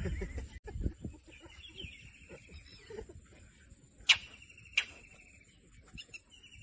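A bird's buzzy chattering call, held in long stretches about a second and a half each, with two sharp high cries about four and five seconds in.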